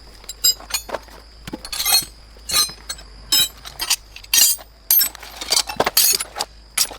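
Hard objects, likely metal tools and parts, clinking and clattering: about a dozen sharp, irregular strikes.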